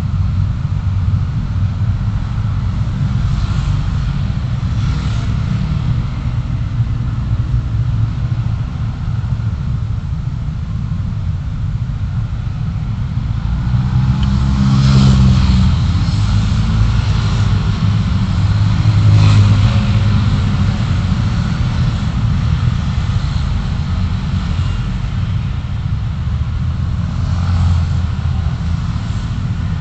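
Steady low rumble of a car driving in city traffic, engine and tyre noise together. It swells twice around the middle as traffic goes by close.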